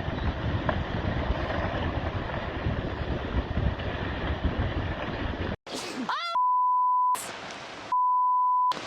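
A steady rush of storm wind and surf noise that cuts off suddenly about five and a half seconds in. Then a short rising cry and two steady high censor beeps, each just under a second long, with a moment of noise between them.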